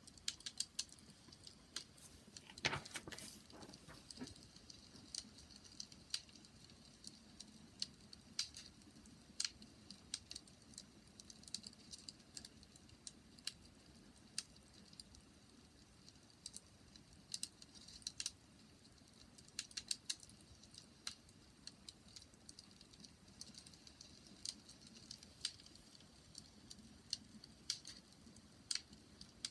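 Wood fire crackling: faint, irregular sharp snaps and pops, with a louder cluster of pops about three seconds in, over a low steady hush of the burning fire.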